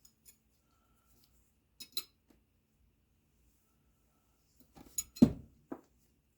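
Small metal objects clinking and knocking on a hard surface: two light clicks about two seconds in, then a quick cluster of knocks near the end, one of them loud.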